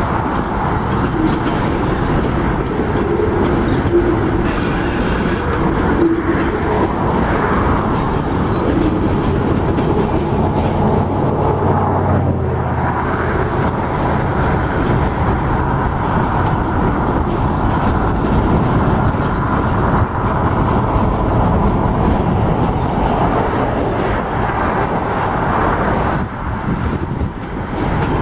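Freight train of boxcars rolling past: a steady rumble with the clatter of steel wheels on the rails.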